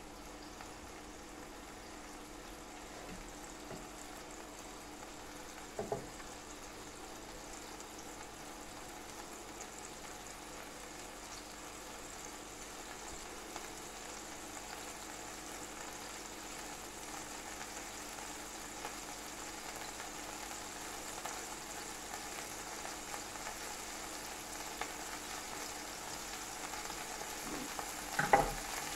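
Slices of coarse rustic pâté frying in oil in a non-stick pan: a steady sizzle that grows slightly louder as it goes. A brief knock about six seconds in and a louder clatter of knocks near the end.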